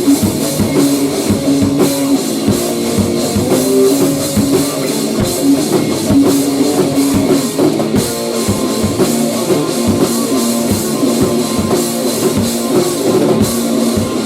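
Loud rock band playing an instrumental stretch without vocals: a drum kit hit hard under a repeating electric guitar riff.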